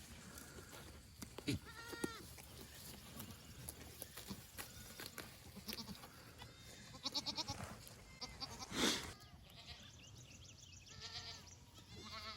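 A herd of fainting goats bleating faintly while grazing, with a scattering of separate calls, one of them a quavering bleat.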